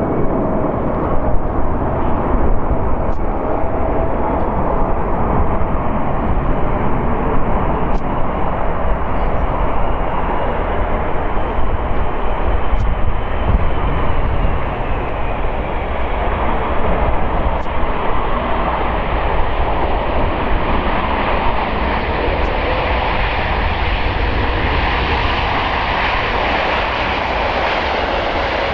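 Jet noise from a Boeing 747-8F freighter's four GEnx-2B67 turbofans on landing approach: a steady, loud rush that grows brighter and more hissing over the second half as the aircraft comes closer.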